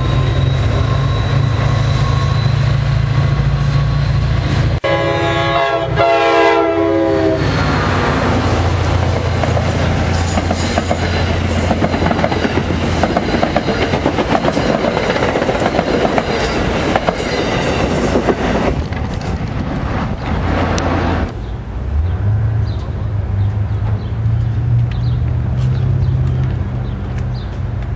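A Metro-North diesel commuter train: a locomotive engine running steadily, then a multi-note train horn held for about two seconds, then passenger coaches rushing past at speed with wheels clattering over the rail joints. About three-quarters of the way in, this stops abruptly and gives way to a quieter low engine hum.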